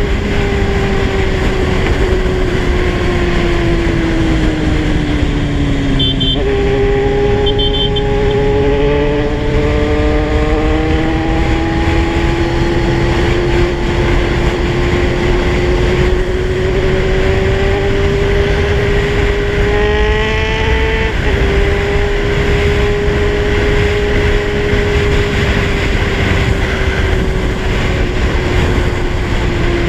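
Kawasaki Z1000 inline-four engine under way, over steady wind and road rumble. Its note falls over the first few seconds, climbs steadily for about fifteen seconds, then steps down at a gear change about twenty seconds in.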